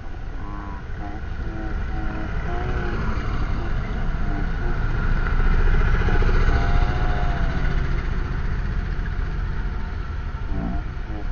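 Truck engine running with a steady low rumble. It grows louder to a peak about six seconds in, then eases off, with faint voices in the background.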